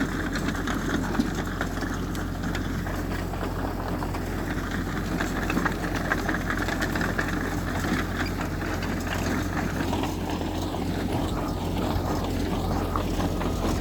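Diesel engine of heavy earthmoving machinery running steadily, with scattered light clicks and clanks over it.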